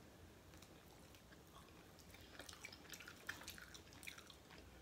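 Faint chewing of a crispy baked chicken wing: soft wet mouth clicks and small crunches, scattered through the second half.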